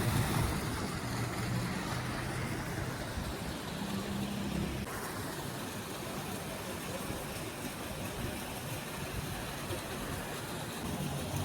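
A motor vehicle running, with a steady low engine hum that shifts in pitch a few times over a constant hiss of road noise.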